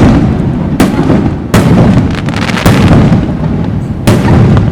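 Aerial firework shells bursting overhead: a quick run of sharp booms about a second apart. Each boom is followed by a long, low rolling rumble, so the booms run into one another.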